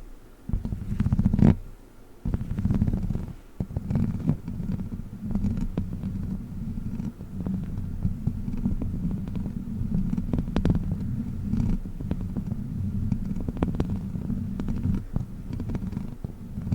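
A rubber 'witch finger' toy handled close to the microphone: a dense, low, rumbling crackle with many small clicks, dipping briefly about half a second in and again at about two seconds, then running on without a break.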